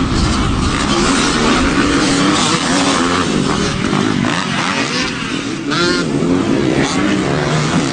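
Several motocross dirt bikes running on the track, their engine pitch rising and falling as the riders work the throttle. About six seconds in, one engine revs up sharply at a high pitch.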